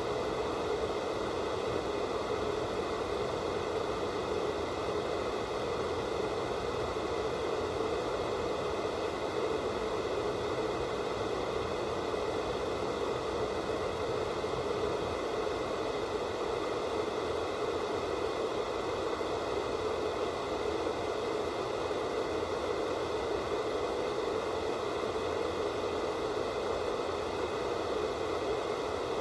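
Analog no-signal static: a steady, unchanging hiss.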